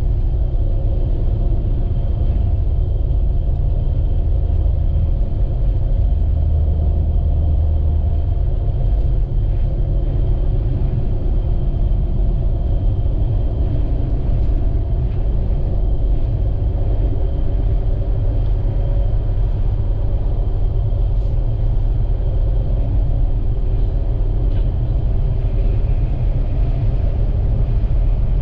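Steady low rumble of a vehicle driving, heard from inside the cabin: engine and road noise with a few steady hums above it, unchanging throughout.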